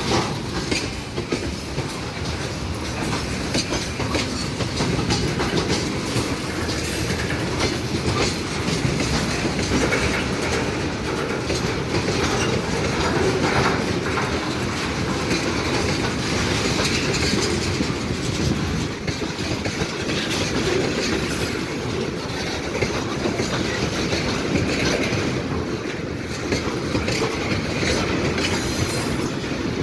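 Railway wagons rolling past at close range, the wheels clattering steadily over the rail joints, with a brief high squeal near the end.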